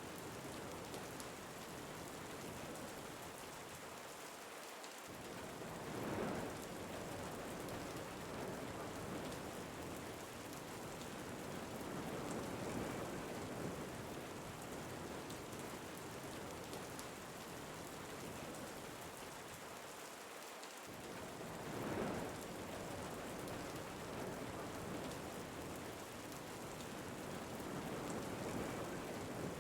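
Steady rain falling, with wind that swells briefly twice, about six seconds in and again near two-thirds of the way through.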